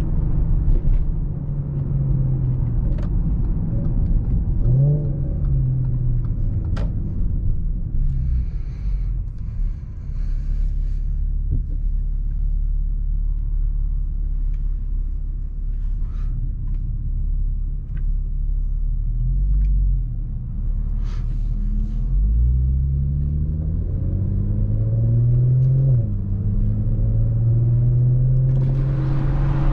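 A 2017 Audi SQ5's V6 exhaust with non-resonated downpipes and a touring cat-back, heard from inside the cabin while driving. It is a deep rumble whose pitch climbs under acceleration and drops back at gear changes, twice in the second half.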